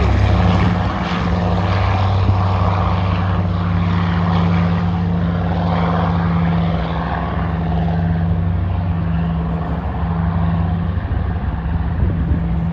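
Twin radial engines of a PBY-5A Catalina running at takeoff power: a steady, deep propeller drone. Its higher part fades gradually over the second half as the aircraft draws away.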